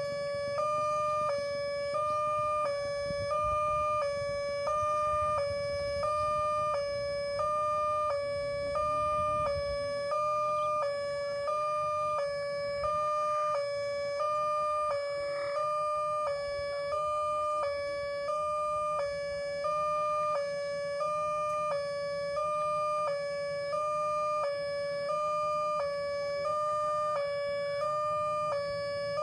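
Automatic railway level-crossing alarm sounding: an electronic tone that alternates between two close pitches about once a second, the warning that a train is approaching. A low rumble runs under it for roughly the first third.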